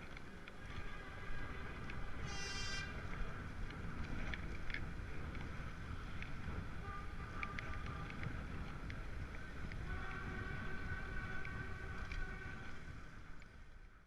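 Street traffic and wind rumble on a bike-mounted microphone, with a brief shrill squeal about two seconds in and a steady whine from about ten seconds in. The sound fades out at the end.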